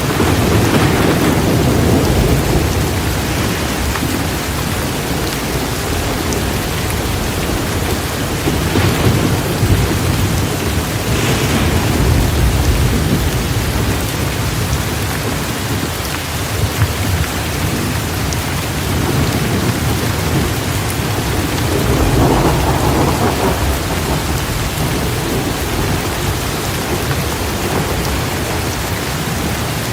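Torrential rain falling steadily, with low rolling thunder that swells up several times.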